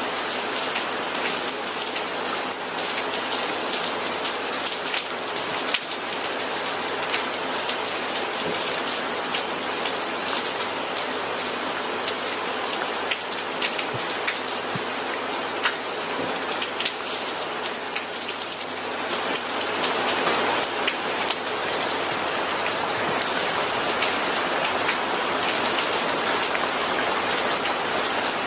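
Steady rain with many individual drops ticking on a surface. It eases slightly about two-thirds of the way through, then comes back a little heavier.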